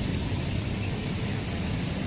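Running train: a steady low rumble with an even rushing noise over it.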